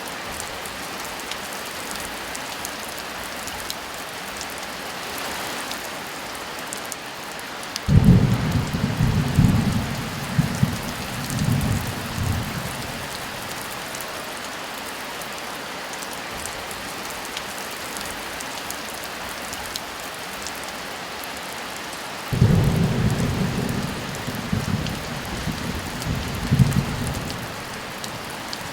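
Steady heavy rain hissing, with two rolls of thunder: one starts suddenly about eight seconds in and rumbles for about four seconds, and a second comes near the end.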